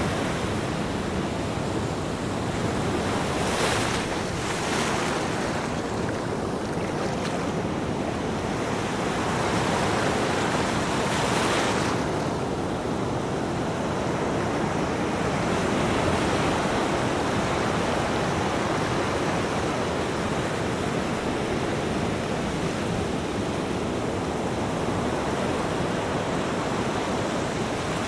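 Ocean surf washing onto a beach: a steady hiss of breaking waves, with louder surges of wash about four seconds in and again around ten to twelve seconds in.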